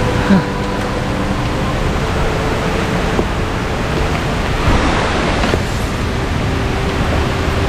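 Loud, steady rush of water from a jungle stream cascade, with a brief bump about half a second in.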